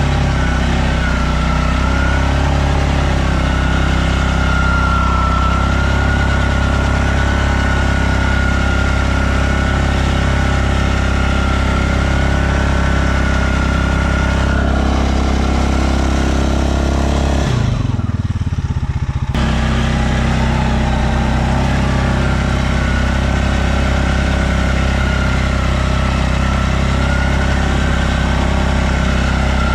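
Stels Leopard 650YL quad's engine running at steady revs, with a high wavering whine riding over it. About eighteen seconds in, the revs drop off sharply for a second or two, then pick back up.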